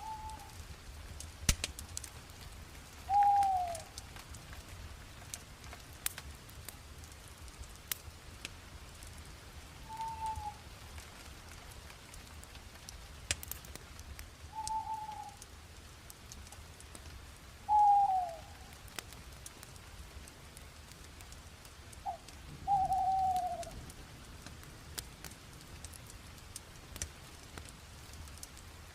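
Bonfire crackling with scattered sharp pops over a steady hiss. A short whistling note, several of them falling in pitch, sounds about every three to five seconds and is the loudest thing heard.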